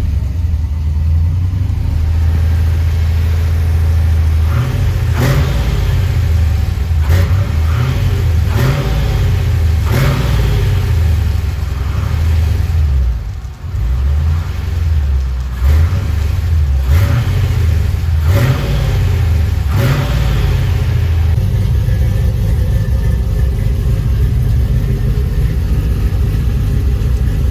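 Freshly rebuilt 6.0-litre LS V8 running in the pickup, blipped up in short revs several times through the first two-thirds, then settling into a steady idle.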